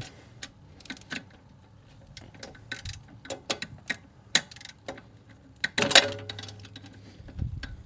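Scattered metallic clicks of hand tools, a socket ratchet and wrench working on bolts, at an uneven pace. One louder metal clink with a short ring comes about six seconds in.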